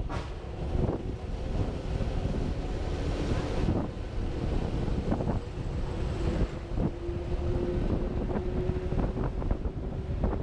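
Wind buffeting the action camera's microphone on a moving motorcycle, a dense low rumble with crackles, over a faint steady engine note.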